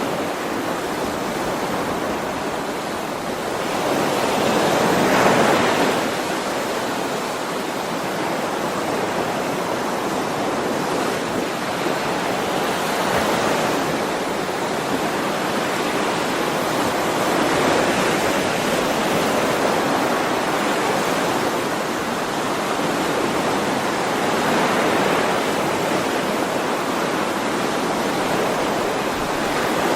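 Ocean waves washing onto a shore in a continuous rush of surf, swelling and easing every several seconds, with the biggest surge about five seconds in.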